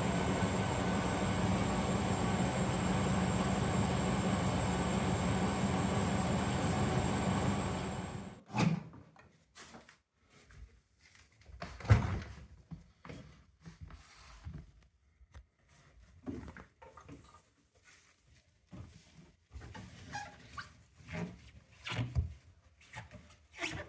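Zanussi front-loading washing machine on its final spin, a steady running noise with a fixed hum and a high whine, which stops abruptly about eight seconds in. After that come scattered knocks and clicks, as of the machine's door being unlatched and handled.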